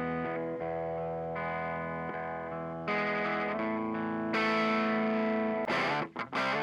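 Electric guitar played through a Mooer Black Secret distortion pedal, a Pro Co RAT clone. Held distorted chords ring and change every second or so, then about five and a half seconds in the playing turns to short, choppy chords in a quick rhythm.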